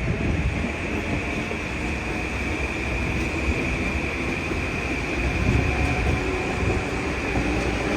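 Passenger train running past at speed on the New Haven Line: a steady loud rumble and rush of wheels on rail, with a steady high whine above it.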